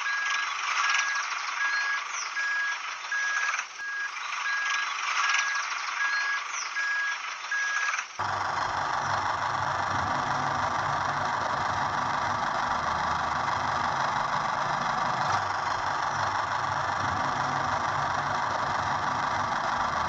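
A vehicle reversing alarm beeps steadily, about two beeps a second. About eight seconds in it cuts abruptly to a steady engine-like running sound with a low pulsing throb.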